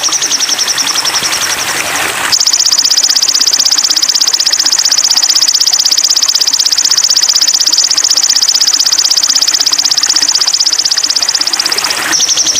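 Sogon songbird tutor recording: a high, fast, buzzing trill held without a break. It jumps higher and louder about two seconds in and drops back near the end.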